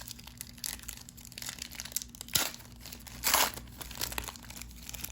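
Crinkling and rustling of a trading-card pack wrapper and cards being handled, with two louder rustles about two and a half and three and a half seconds in.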